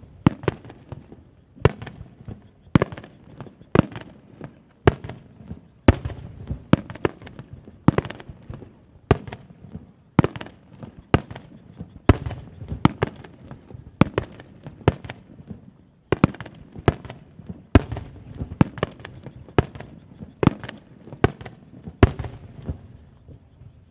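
Aerial firework shells bursting in quick succession, with sharp bangs about one to two a second and a rolling, echoing rumble between them. The barrage dies away near the end.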